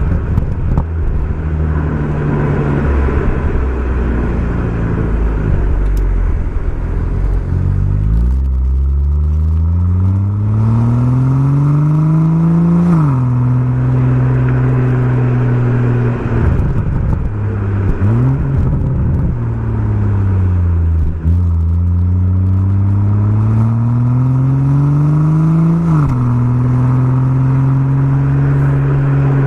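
BMW M140i's 3.0-litre turbocharged straight-six running through a Remus aftermarket exhaust under way: a low rumble at first, then twice the engine note climbs under acceleration and drops suddenly at an upshift, about halfway through and again near the end.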